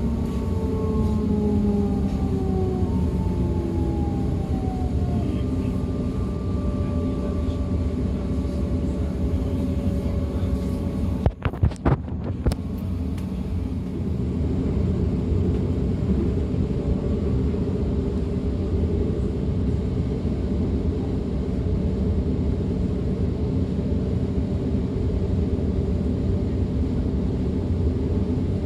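Running noise of a DB Class 425 electric multiple unit heard on board: a steady rumble with falling motor whines in the first few seconds. About eleven seconds in the sound breaks off briefly with a few sharp clicks, then the steady rumble goes on.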